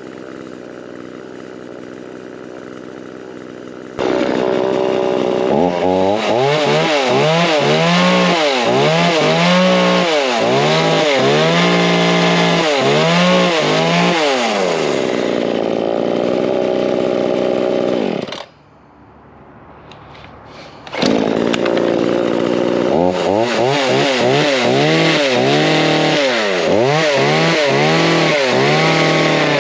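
Brand-new Forest King 40cc two-stroke chainsaw running on a first heat cycle. It runs steadily for a few seconds, then gets much louder, and its pitch rises and falls again and again as the throttle is worked. It cuts out about 18 seconds in, and a couple of seconds later it is running loud again, rising and falling as before.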